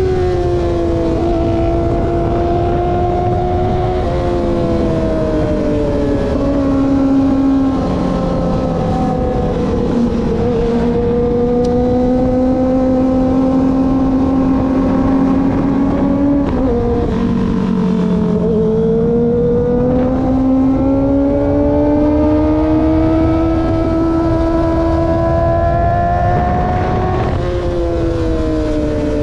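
Kawasaki ZX-25R's 250 cc inline-four engine on the move, its pitch rising and falling with the throttle, with sudden drops in pitch at gear changes about four seconds in and near the end. Wind rushes underneath.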